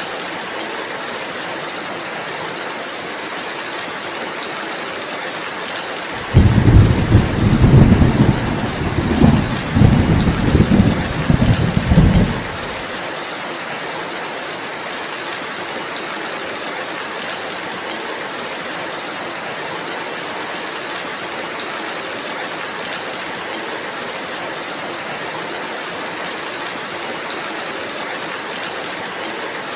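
Steady rainfall hissing, with a loud, low rumble of thunder starting about six seconds in and rolling on for about six seconds before it ends abruptly.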